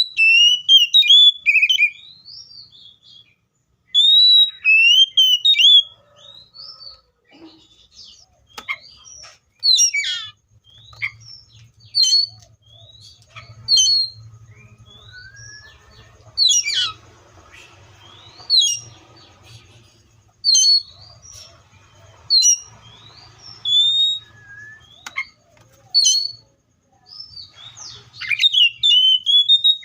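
Magpie-robin singing: loud whistled phrases at first, then sharp, clipped notes and short whistles every second or two, with a longer run of notes near the end. A faint low hum sits underneath from about a third of the way in.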